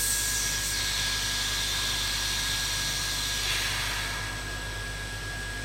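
Hot air rework station blowing a steady rushing hiss with a thin steady whine, heating the solder under a phone's RF board so the board can be pried off. The rush eases off about four seconds in.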